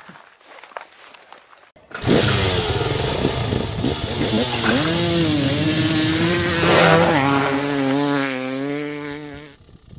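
Small 50cc mini bike engine running and revving, its pitch rising and falling. It starts abruptly about two seconds in and fades away near the end.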